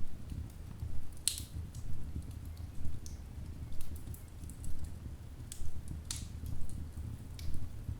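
Wood fire in a fireplace crackling, with sharp pops and snaps scattered over a steady low rumble of the flames; the loudest pop comes about a second in.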